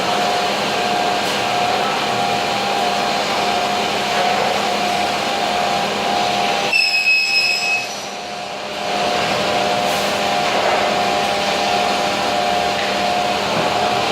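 Weeke BMG 111 CNC wood-drilling machine running steadily with a pulsing hum and rushing noise. About seven seconds in there is a brief high-pitched whine, then the noise drops for about a second before it resumes.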